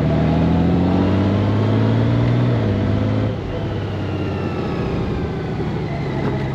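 Honda GoldWing flat-six engine pulling up in revs for about two and a half seconds. The pitch then drops about three seconds in and it runs lower and quieter for the rest.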